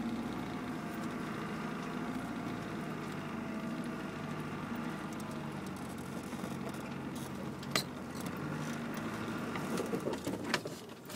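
Land Rover Discovery Mk1 engine running steadily, heard from inside the cab while driving over a rough off-road track. A single sharp click comes about three-quarters of the way through, and a few knocks follow near the end.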